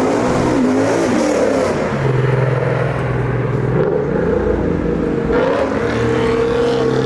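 Car engines running loud, with one revving up and down in pitch.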